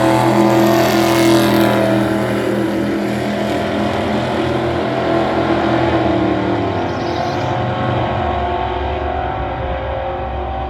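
Drag-race cars running at full throttle down the strip, a loud engine sound with a steady pitch that slowly fades as they pull away.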